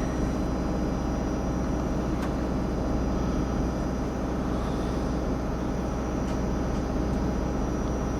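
Steady low hum of a diesel locomotive engine running at an even speed, with a faint click about two seconds in.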